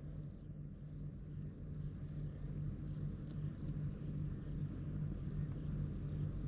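Night-time outdoor ambience by a campfire. A steady low hum and a high-pitched chirp repeat a little over twice a second, starting about a second and a half in.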